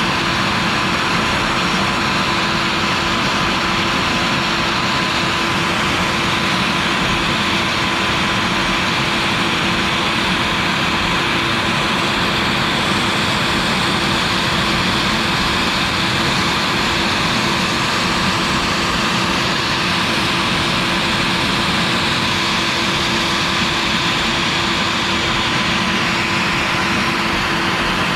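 CNC router spindle running with a 1/8-inch end mill cutting PVC: a constant whine over an even machine noise that does not change.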